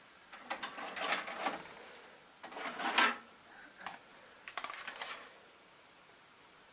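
VCR's cassette eject mechanism working: a run of mechanical clicks and clatter, one louder clunk about three seconds in, then a few more clicks.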